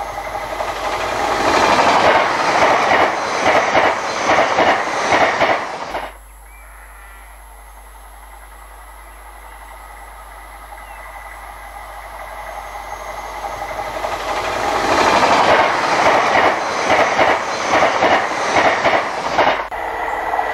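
Two high-speed passenger trains passing close by on the main line, each with a regular clickety-clack as its wheels cross the rail joints. The first, a CrossCountry Voyager diesel multiple unit, is at full speed and cuts off abruptly about six seconds in. The second, a TransPennine Express train, is heard approaching, growing steadily louder, and passes over the last few seconds.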